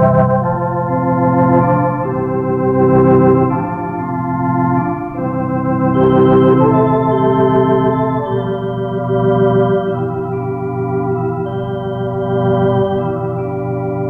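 Organ playing an instrumental passage: sustained chords under a moving melody line, with a pulsing bass.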